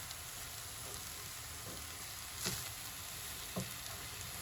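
Vegetable fried rice sizzling in a hot pan as it is stir-fried, with a couple of short knocks of the spatula against the pan about halfway through.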